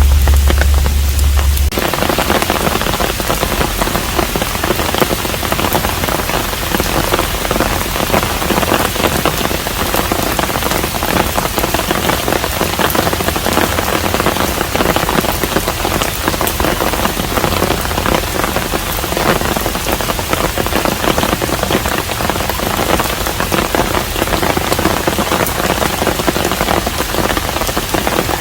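Steady rain pouring and pattering in dense, fine drops. A low hum under it stops abruptly about two seconds in, and the rain sounds fuller from then on.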